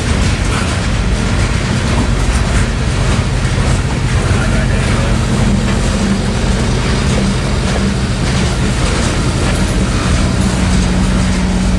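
Freight train of boxcars rolling past at close range: a steady rumble with a low hum and the clatter of steel wheels over the rails.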